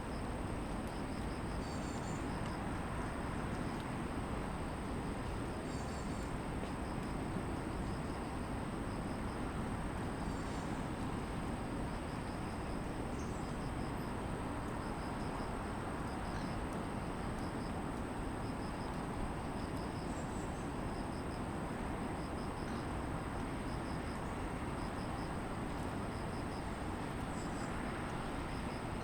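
Steady distant city traffic hum with grass insects: one steady high buzz and a regular pulsing chirp. A few short bird chirps come in now and then.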